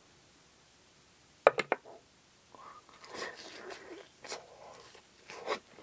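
A bite into crispy battered vegan fried fish with tartar sauce: a sharp crunch of three quick cracks about one and a half seconds in, then close-miked chewing with the fried batter crackling.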